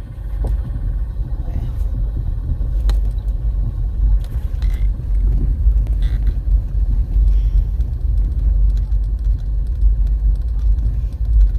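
Pickup truck driving, heard from inside the cab: a steady low engine and road rumble that swells up at the start, with a few sharp rattles and knocks.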